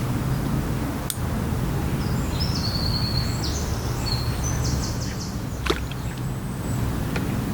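Outdoor ambience by still water: a steady low rumble underneath, with a small bird singing a run of high chirps for about three seconds in the middle. A sharp click sounds about a second in, and another just after the song.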